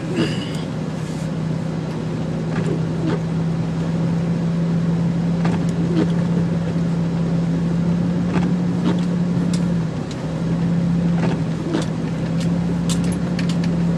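Jeep TJ driving, heard from inside the cabin: a steady low engine drone over road noise, with scattered light ticks and knocks.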